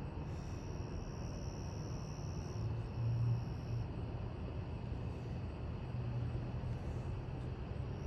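A low, steady rumble of the approaching BNSF coal train's diesel locomotives working up the grade some way off, swelling slightly about three seconds in.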